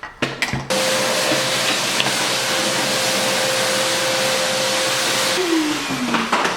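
An electric motor is switched on abruptly, runs at a steady speed with a loud hiss and a steady hum for about five seconds, then is switched off and winds down with a falling pitch.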